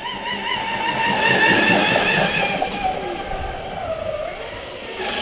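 Pro Boat Miss Geico RC racing boat's electric motor whining on a 6S LiPo pack. The pitch wavers with the throttle, falls about four seconds in, then climbs again near the end.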